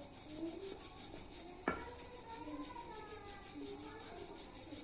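Quick, steady rhythmic rubbing or scraping strokes, like a hard surface being scraped or rasped, with one sharp knock about a second and a half in.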